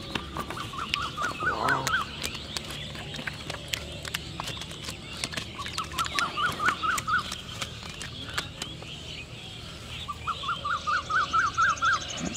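A bird calls three times, about five seconds apart, each call a run of six to eight quick notes climbing in pitch. Scattered sharp clicks run through it.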